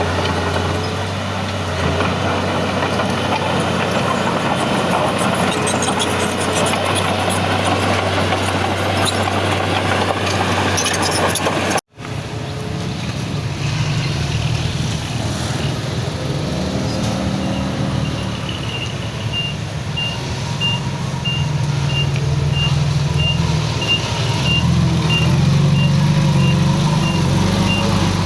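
Heavy diesel earthmoving machinery running steadily, with the engine note shifting after a brief cut about twelve seconds in. From about two-thirds of the way through, a high-pitched reversing alarm beeps about twice a second.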